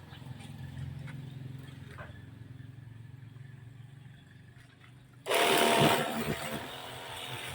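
Washing machine motor running with a steady low hum and faint ticks; about five seconds in, a sudden much louder noisy sound with a wavering tone cuts in over it.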